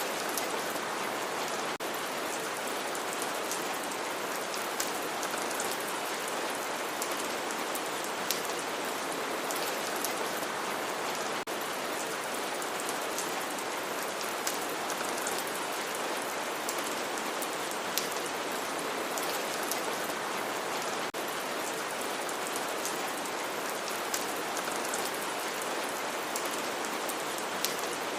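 Steady rain falling, a dense even hiss with scattered sharper drop ticks on a surface.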